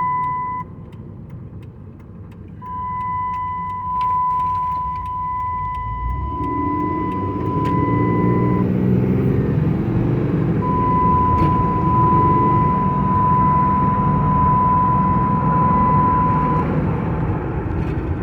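2007 Ram 3500's 6.7 L Cummins diesel pulling the truck along on a test drive, with road rumble; the engine note builds about six seconds in. A steady high-pitched tone comes and goes over it.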